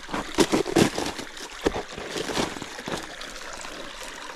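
Footsteps splashing and knocking through a shallow creek over steadily running stream water, the splashes thickest in the first couple of seconds.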